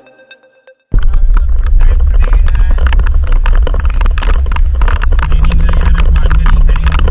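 Loud, heavy rumble and clatter of a moving vehicle heard from on board. It starts abruptly about a second in, with dense rattling over the low rumble.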